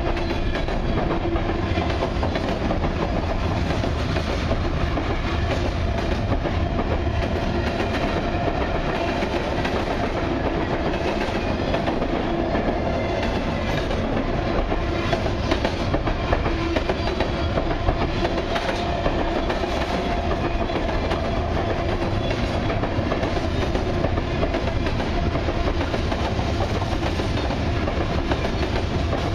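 Freight cars of a long train (centerbeam lumber flatcars, then tank cars) rolling steadily past close by: a continuous rumble of steel wheels on rail with scattered clicks and a steady humming tone running through it.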